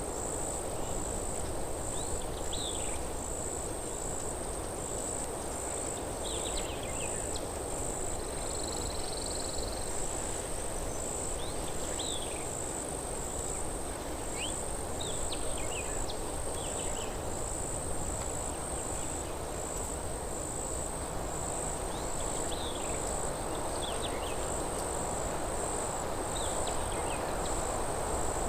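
Forest ambience: a steady rushing of wind through trees, an insect's high, evenly pulsing chirp, and short falling bird chirps every few seconds.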